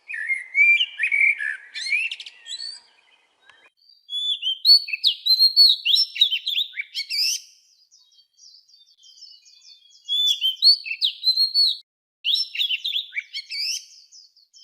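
A songbird singing: four rapid, twittering phrases of quick gliding notes with short pauses between them.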